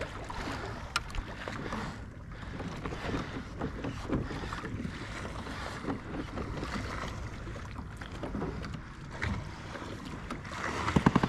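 Water sloshing against a kayak hull, with scattered small knocks and clicks of gear on the boat and a louder rattling burst near the end.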